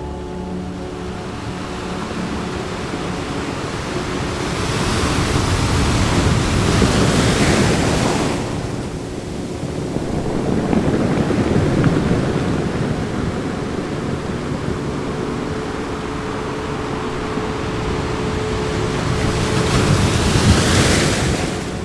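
Ocean waves washing in and drawing back, the surf swelling three times: about four seconds in, around eleven seconds, and near the end. Faint steady held tones sit low underneath.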